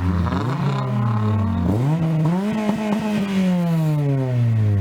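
Car engine being revved through its exhaust: the pitch climbs and falls away, climbs again, holds briefly and slowly drops, then a fresh rev starts right at the end.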